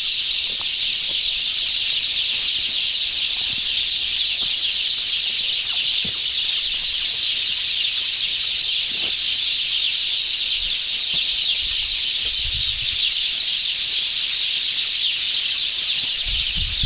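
A dense chorus of many small birds chirping at once in the trees, a loud, steady, high-pitched chatter with no pauses.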